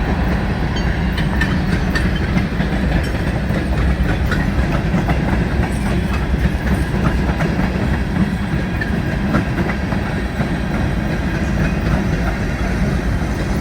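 Freight train rolling past, a steady heavy rumble with scattered clicks and clacks of the wheels over the rails.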